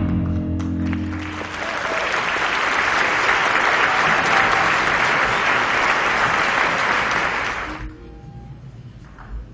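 An audience applauding as the last notes of the music die away; the clapping swells, holds steady for several seconds, then cuts off suddenly near the end.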